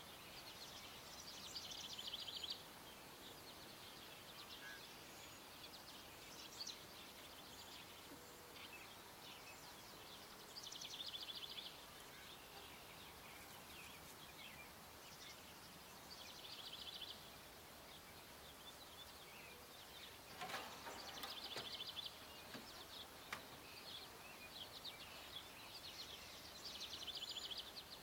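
A songbird repeats a short, rapid trilled phrase about every five seconds over faint background hiss. A brief rattling sound comes about two-thirds of the way through.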